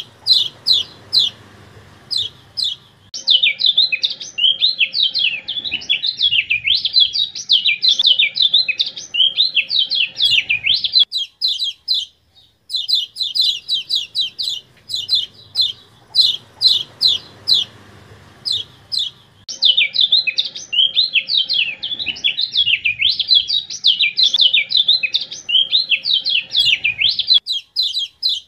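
Kecial kuning (white-eye) song from an edited, partly AI-modified masteran track. A rapid series of sharp, high, evenly spaced chirps runs into fast, jumbled twittering. The same sequence repeats about halfway through, after a short break.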